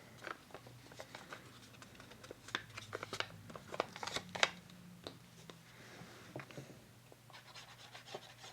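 Paper and card being handled and positioned by hand: irregular crinkles, rustles and light taps, busiest in the middle and again near the end.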